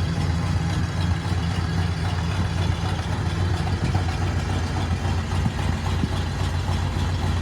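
Oldsmobile Cutlass engine idling steadily while still cold, shortly after a cold start.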